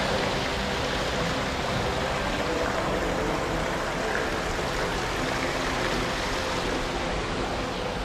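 Steady rush of running water, an even hiss at a constant level that starts abruptly just before and holds throughout.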